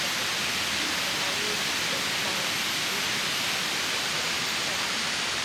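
Steady rushing of river water, an even hiss with no break.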